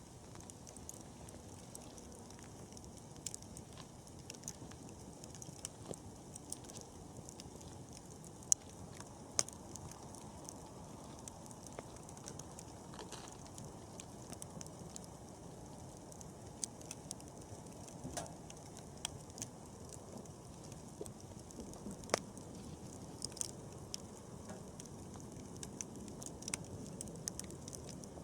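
Wood campfire burning: a steady low rush of flame with frequent sharp crackles and pops scattered through it, a few of them louder.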